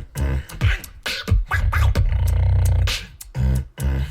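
Beatboxing: a deep, sustained vocal bass under sharp clicks and snare-like hits, with several quick sliding vocal sweeps up and down in pitch.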